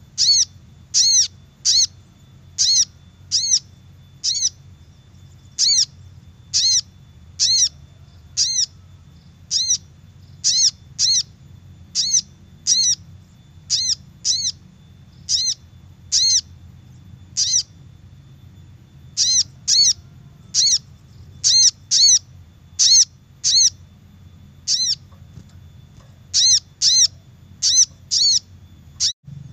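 Little spiderhunter (sogok ontong) calls from a bird-lure recording: short, sharp, high-pitched notes repeated one or two a second at uneven spacing, over a low steady hum.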